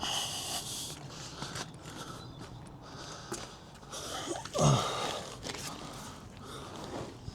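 Rustling and scuffing of someone moving about and getting down under a van, with a short sound falling in pitch about four and a half seconds in.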